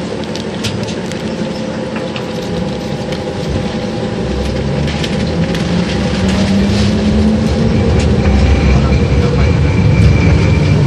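LVS-86K articulated tram running on its rails, heard from inside the car: a dense rumble with rattles and clicks that grows steadily louder. A steady high whine joins about two-thirds of the way in.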